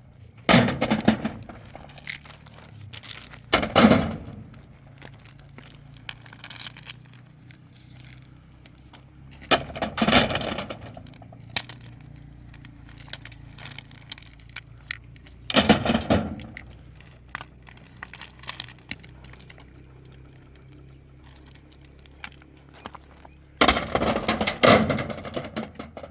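Stones being dropped or thrown onto other stones, clattering loudly in five separate crashes, the last one longer, over a steady low hum.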